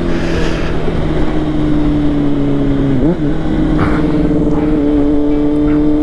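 Honda CBR600RR's inline-four engine running at steady revs under wind noise; about three seconds in the pitch dips and jumps back up, a gear change, then holds steady again.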